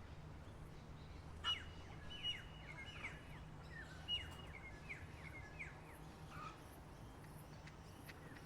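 A songbird singing two short phrases of quick, falling chirps, the first about a second and a half in and the second about four seconds in, over a faint steady low hum.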